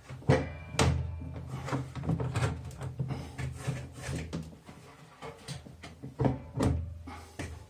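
Knocks and scraping from the drum of a Whirlpool AVE7527/1 top-loading washing machine being handled and fitted onto its shaft during reassembly. Two sharp knocks come near the start and two more about six seconds in, with lighter scraping between.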